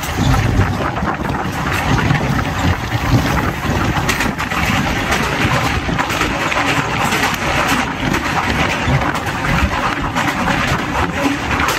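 Express train of ICF passenger coaches running along the track: a steady rush of wheel-and-rail noise with fine rapid clicks, and wind rushing past.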